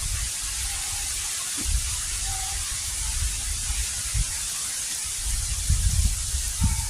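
Heavy rain falling steadily as a dense hiss, with gusts of wind buffeting the microphone in low rumbles.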